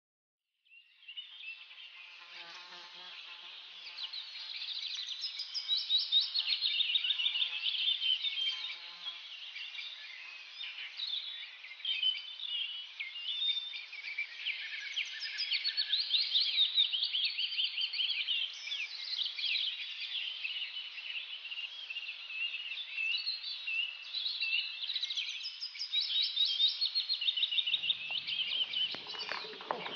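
Senegal parrots chattering: a dense stream of high-pitched chirps, squeaks and rapid buzzy trills, with a lower rustling joining near the end.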